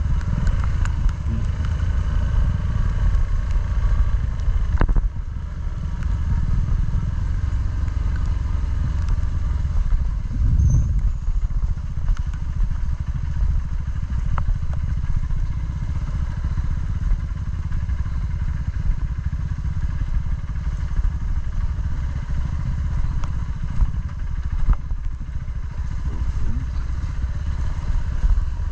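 Motorcycle engine running steadily, heard as a deep continuous rumble, with a brief rise about ten seconds in.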